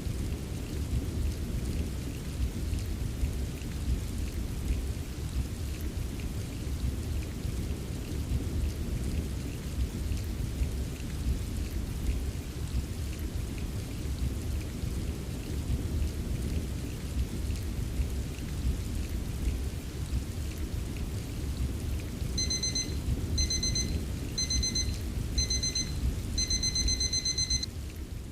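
Steady rain with a low rumble of thunder. About 22 seconds in, a digital timer alarm starts beeping: high beeps in short bursts about once a second, then a longer run near the end. This is the signal that the 25-minute focus session is over.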